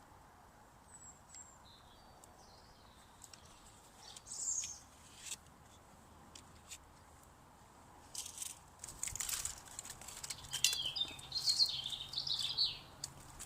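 Small woodland birds chirping: a few short high calls in the first half and a longer run of quick notes near the end, among scattered sharp clicks.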